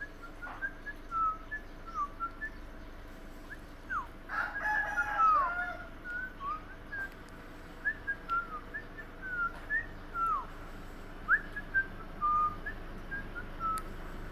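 Pet parrot giving a string of short whistled chirps that slide up and down in pitch, with a louder burst of chirping calls about four to six seconds in.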